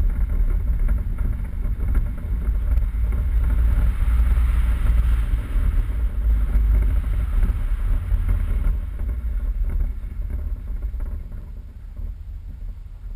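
Off-road 4x4 vehicle driving, a steady low rumble with wind on the microphone, growing quieter over the last few seconds.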